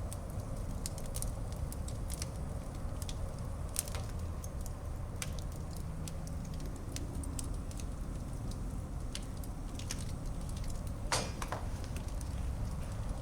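Fireplace fire crackling, with irregular sharp pops over a low steady rumble of flames; one louder pop about eleven seconds in.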